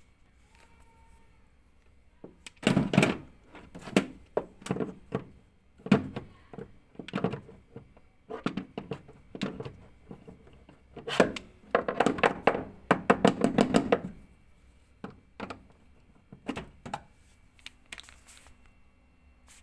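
Irregular knocks, thunks and rattles of hands and tools working on a washing machine's suspension and damper parts, with a dense run of rapid clattering strokes a little past the middle.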